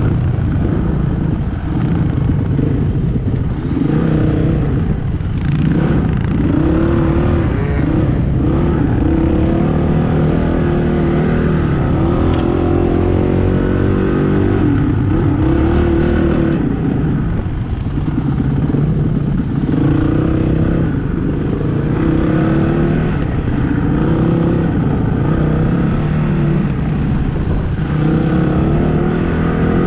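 Dirt bike engine being ridden, its revs rising and falling again and again through the gears and throttle.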